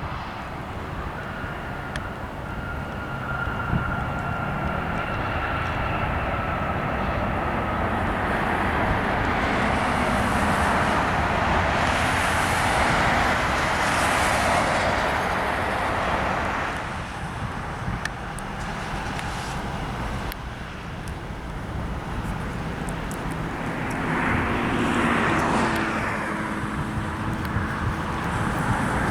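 Spirit Airlines Airbus A320 jet airliner's IAE V2500 turbofans on arrival. A high engine whine falls in pitch over the first few seconds, then a broad rush of jet noise builds to its loudest around the middle and drops off suddenly. The Spirit Airbus A321 follows, with another swell of jet noise near the end.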